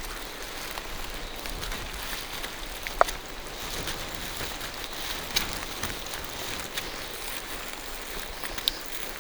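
Rain falling steadily through forest trees, with scattered louder drips hitting leaves and the ground; one sharp drop stands out about three seconds in.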